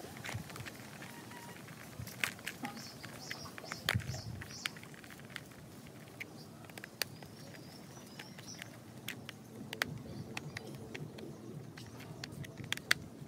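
Irregular light clicks and taps of a small screwdriver and screws working into a plastic toy helicopter's body as its parts are screwed tight.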